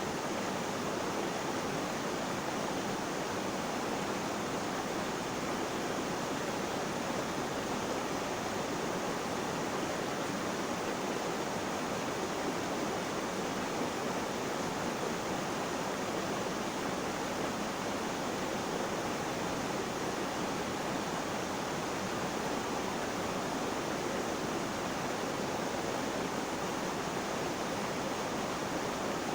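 Flowing water rushing steadily: an even, unchanging hiss with no breaks or splashes standing out.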